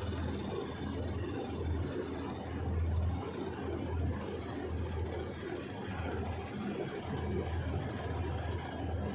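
Hyundai HX 220 HD excavator's diesel engine running under working load, its low hum swelling and easing about once a second.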